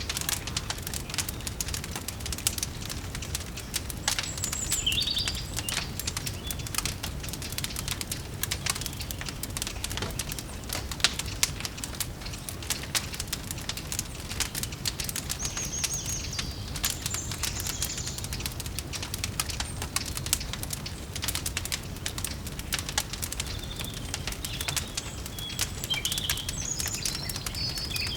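Wood fire crackling with a constant stream of small pops over a low steady rumble, while a bird chirps briefly a few times: a few seconds in, in the middle, and again near the end.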